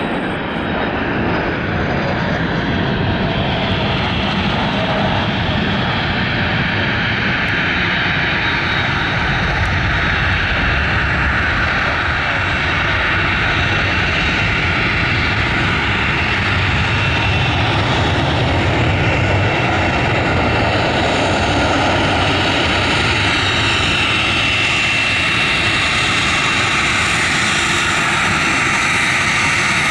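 Fixed-wing aircraft engine running loudly and steadily, with a thin high whine that grows clearer in the second half.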